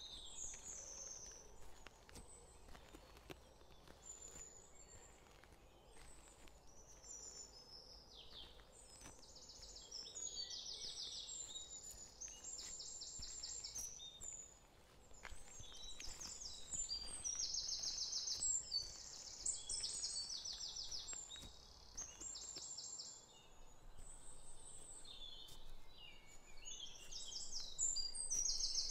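Birds singing over a faint steady hiss: high chirps and fast trilled phrases, growing busier about a third of the way in.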